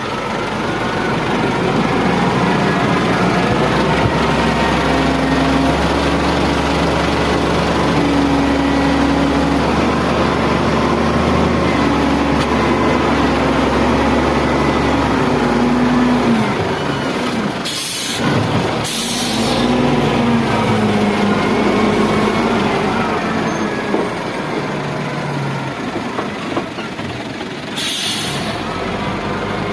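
Heavy diesel engines of a loader and dump truck running, their pitch rising and falling under load, with a deep rumble through the first half. Three short bursts of hiss come near the end.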